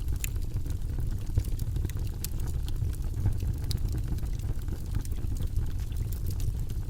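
Campfire burning steadily with many small, irregular crackles and pops over a low, even rumble.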